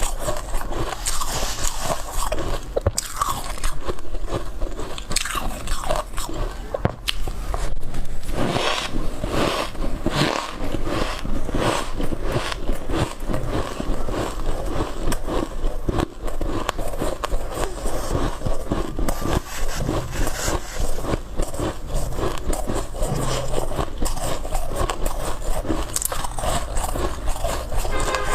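A person biting and chewing white shaved ice close to the microphone: a continuous run of dense, crisp crunches, one bite after another.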